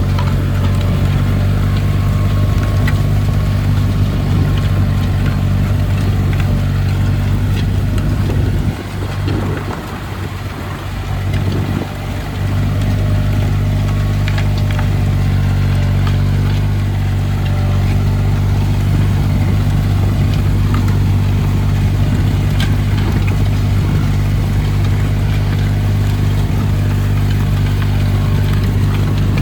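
Tractor engine running steadily under way, a deep even drone. About nine seconds in it drops in level for roughly three seconds, then returns to the same steady note.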